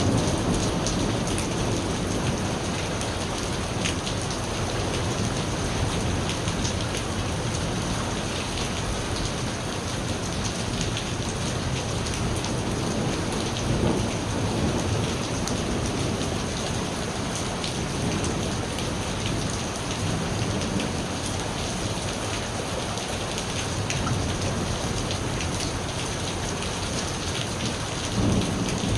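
Steady rain pouring down, with low rumbles of thunder swelling up a few times: a thunderstorm.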